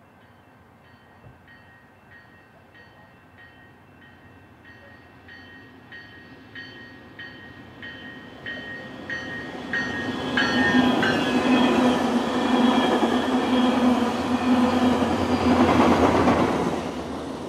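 Metrolink commuter train approaching and passing: the diesel locomotive's bell rings about three times every two seconds, growing louder and dropping in pitch as the locomotive goes by about ten seconds in. Then the locomotive's engine hum and the rumble of the coaches on the rails grow to their loudest near the end and begin to fall away.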